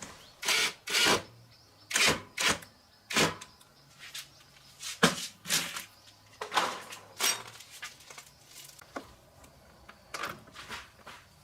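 About a dozen short clicks, knocks and scrapes at irregular intervals, the loudest about five seconds in: small parts and tools being handled during repair work.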